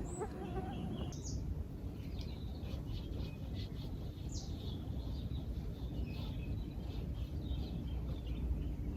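Small birds chirping, with many short, high calls scattered throughout, over a low steady rumble.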